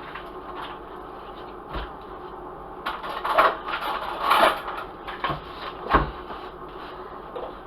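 Kitchen handling noises as bacon is readied for frying: a few knocks and clatters of cookware with rustling. The loudest cluster comes in the middle, and a sharp knock follows a couple of seconds later.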